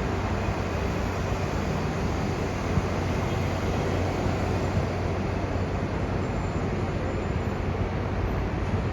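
Steady running noise of a Line 15 monorail train, an even hiss with a low hum.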